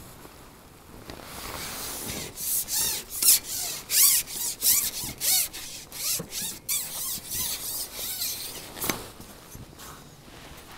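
A run of quick rubbing strokes close to the microphone, about two a second for several seconds, then easing off.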